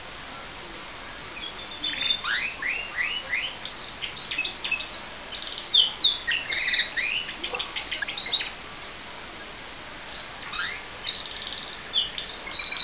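Domestic canary singing: a long phrase of fast, repeated chirps and rolling trills starting about a second and a half in, a pause of a couple of seconds, then the song starts again near the end.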